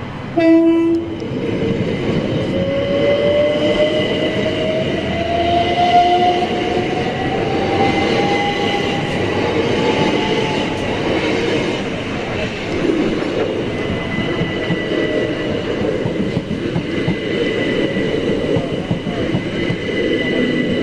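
Southern Class 377 Electrostar electric train sounding a short horn blast, then pulling away with its traction motors whining, the whine rising steadily in pitch as it accelerates, over the rumble and clatter of wheels on rail.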